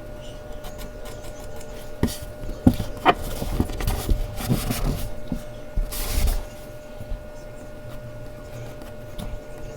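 Mechanical pencil and eraser working on Bristol paper: scratchy rubbing and a few sharp knocks from about two seconds in until about six and a half seconds, over a faint steady hum.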